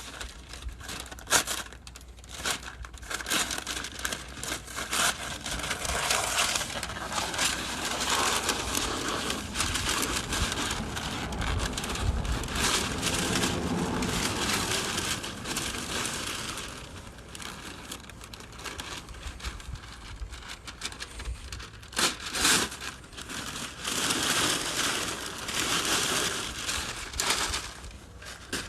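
Masking paper and tape being pulled off and crumpled up by hand: continuous crinkling and tearing, with a few sharper rips.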